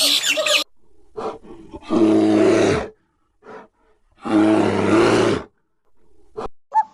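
A big cat roaring twice, each deep roar lasting about a second, with short quieter sounds between. A burst of high chattering from another animal cuts off just at the start.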